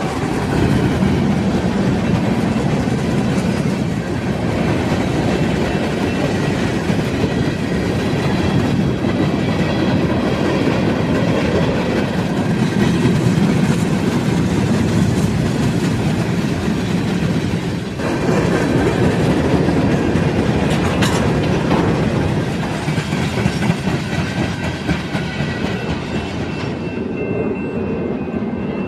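Union Pacific freight train's covered hopper cars rolling past on steel rails: a loud, steady noise of wheels running on the track and cars rattling, thinning out somewhat over the last few seconds.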